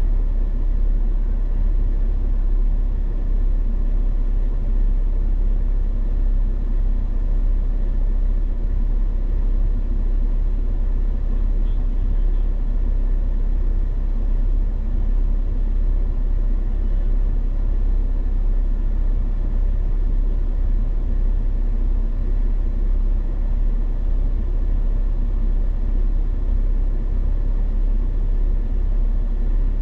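Vehicle engine running with a steady low rumble that holds even throughout.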